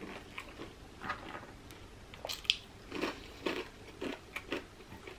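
Close-up eating sounds of a person chewing and sucking on sauced shrimp: irregular wet mouth noises with a few sharp clicks.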